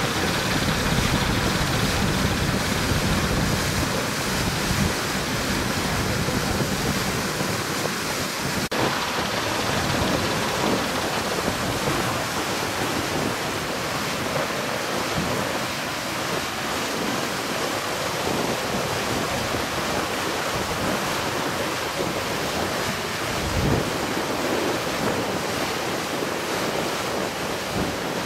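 Steady rushing of wind over the microphone mixed with water noise. Low buffeting rumble is strongest for the first eight or so seconds, then eases.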